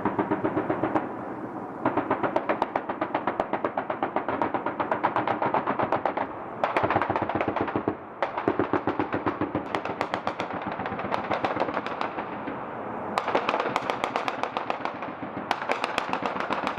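Machine-gun fire in several long, rapid bursts with brief pauses between them.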